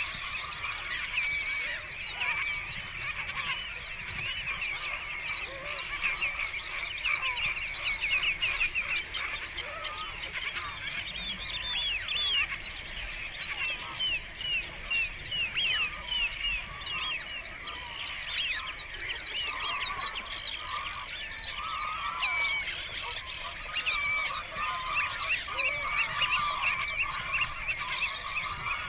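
A large flock of birds calling all at once: many short chirping calls overlap in a continuous, dense chatter.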